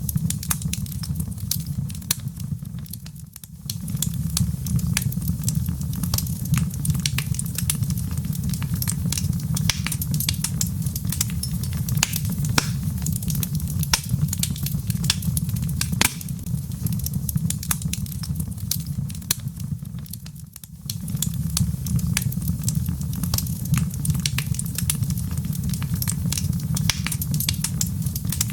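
Log fire in a fireplace crackling: a steady low rumble of the flames under frequent sharp pops and snaps of burning wood. The rumble fades briefly twice, about three seconds in and again about twenty seconds in.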